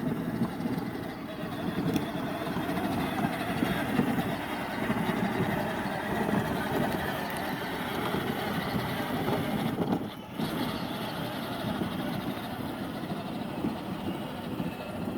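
A pickup truck running as it is driven: a steady engine and driving sound, with a brief drop in loudness about ten seconds in.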